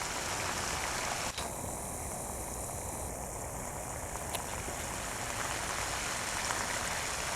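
Steady rushing outdoor background noise, with a single faint click about a second and a half in.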